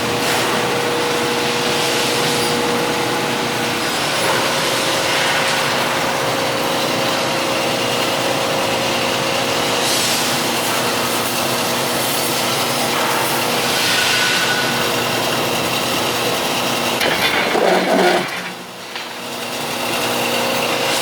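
Rebar-processing machine running steadily, a grinding, rubbing machine noise over a steady hum. It rises briefly and then drops off for about a second near the end before picking up again.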